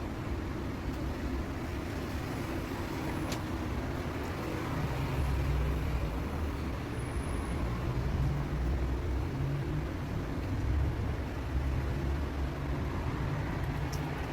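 Steady low mechanical rumble, swelling a little now and then.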